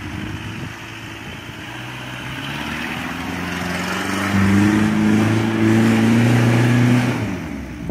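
Jeep CJ7's engine revving hard under load as it climbs a steep muddy slope. The revs build over the first few seconds, jump about halfway in and stay at their loudest with a slowly rising pitch for about three seconds, then the throttle drops off near the end.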